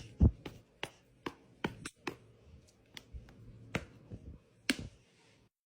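A series of sharp, irregular taps, about nine over five seconds, the loudest right at the start, then they stop.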